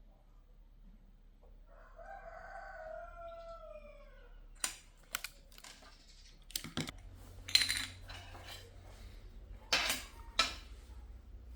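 A rooster crows once: one drawn-out call falling in pitch. It is followed by a series of sharp clicks and clatters, the loudest in the second half, with a low hum coming in midway.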